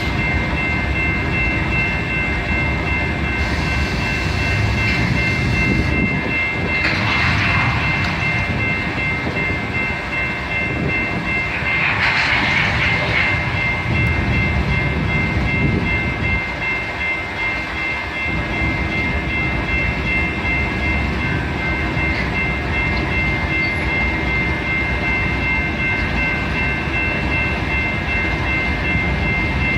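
Freight train cars rolling slowly past into a rail yard, with a steady high-pitched squeal held throughout and rumbling wheels; two short hissing swells come about seven and twelve seconds in.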